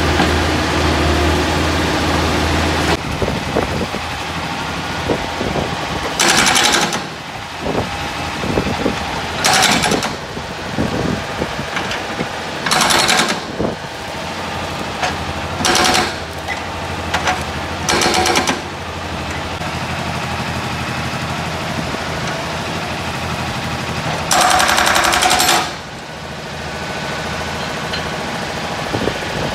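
Hydraulic breaker on a Kubota U50-5S mini excavator hammering an old engine block in about six short bursts of rapid blows, the longest near the end. Between bursts the excavator's diesel engine runs steadily.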